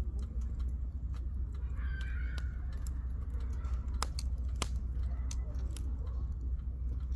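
Burning firewood crackling in a campfire: irregular sharp pops and snaps over a steady low rumble.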